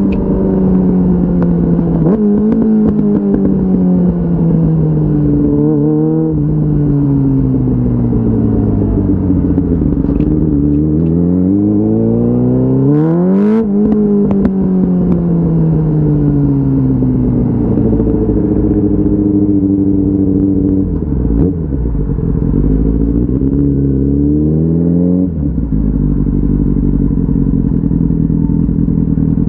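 A 2004 Yamaha R6's 600 cc inline-four engine heard from the rider's seat. Its pitch winds down as the bike slows, stepping up a few times on downshifts. It revs sharply up and back down in the middle, climbs again, and runs at a steady pitch for the last few seconds.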